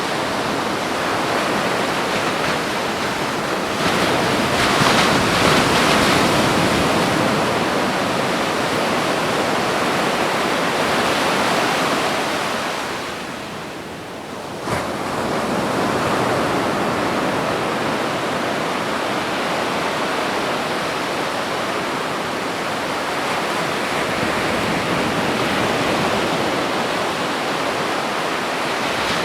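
Ocean surf breaking on a beach: a continuous rush of water that swells as a wave breaks about four seconds in, falls away briefly near the middle, then comes back sharply with the next wave.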